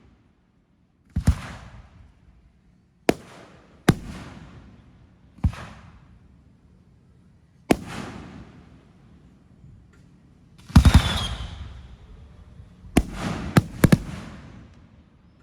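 Fireworks bursting overhead: a string of about a dozen sharp bangs, each trailing off in a fading echo. The loudest is a tight cluster of reports about eleven seconds in, and three quick bangs follow near the end.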